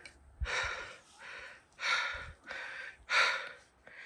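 A person breathing hard: three loud, noisy breaths about a second and a half apart.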